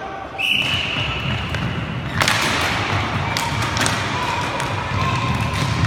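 A whistle blows one steady high note for nearly two seconds, cut off by a sharp knock. Scattered clicks and thuds of play on the roller hockey rink follow.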